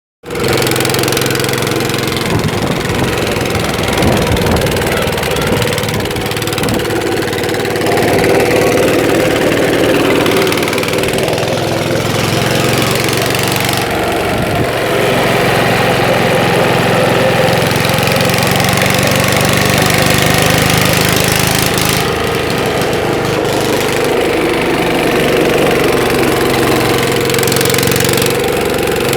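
A Lister stationary engine running steadily, with a knocking beat, on its first run after standing unused for some years.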